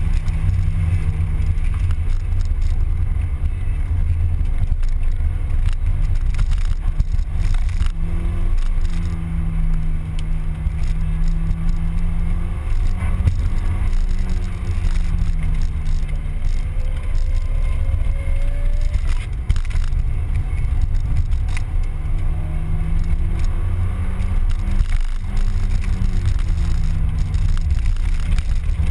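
Mazda Miata's four-cylinder engine running while driving, its pitch rising and falling with the throttle, over heavy low wind and road rumble.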